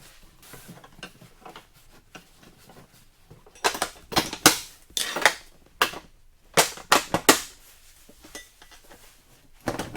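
Sharp metallic clicks and clanks, about a dozen in a cluster through the middle and one more near the end, from the motorcycle's Jesse aluminum side luggage being handled and worked on its mounting bracket.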